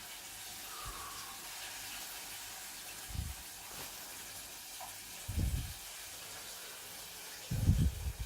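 Steady sizzling hiss of food frying in a pan, with a few dull low thumps about three, five and a half, and seven and a half seconds in.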